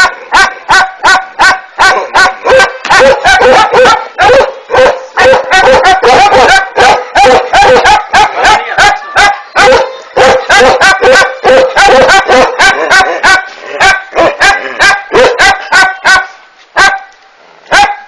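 A Ladakhi (Kashmiri) dog pup barking loudly in a fast, unbroken run of about three or four pitched barks a second, the rapid non-stop barking this breed is known for. There is a short lull near the end.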